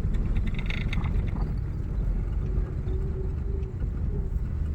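Low, steady rumble of a car's engine and tyres heard inside the cabin as the car moves off slowly in first gear, with a few light clicks about a second in.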